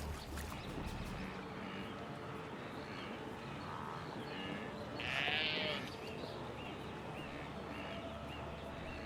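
Wildebeest herd calling: a string of short, nasal calls from many animals, with one louder, rougher call lasting about a second, some five seconds in.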